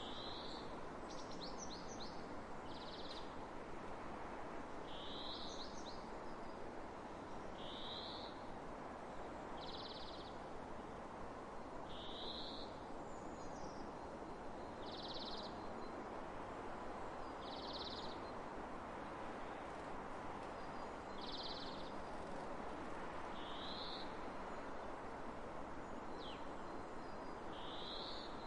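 Steady wind hiss, with a bird repeating a short, high call about every two seconds, alternating between a rising slurred note and a flat one.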